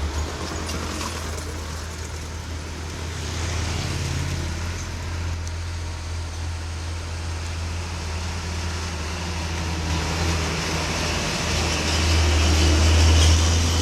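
Dump truck's diesel engine drones steadily under load as it climbs a steep hill, growing a little louder near the end.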